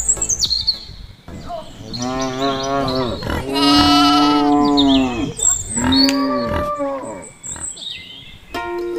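A cow mooing three times, each call rising and then falling in pitch, the middle one the longest and loudest. Light plucked background music comes back just before the end.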